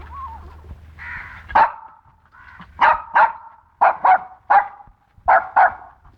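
Young dogs barking in short, sharp yaps, about eight of them, several in quick pairs.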